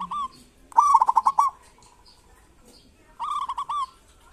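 Zebra dove (perkutut) calling: short bursts of rapid, looping notes, the loudest about a second in and another about three and a half seconds in.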